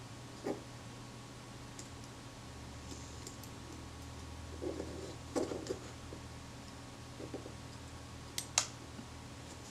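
Scattered light clicks and taps of small metal tools and camera shutter parts being handled while a pin is fitted back into the shutter's shaft. There is a small cluster of clicks midway and two sharp clicks near the end, over a steady low hum.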